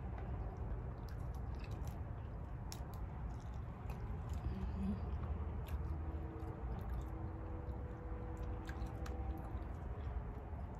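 A person chewing food, with scattered small mouth clicks and smacks, over a steady low hum.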